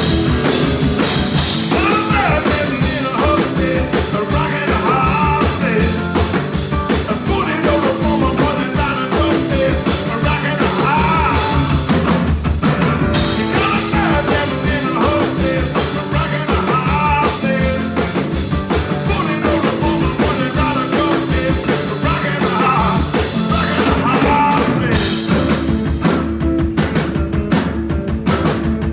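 Blues trio playing live: guitar lines over bass and a steady drum beat, the cymbal wash dropping away near the end.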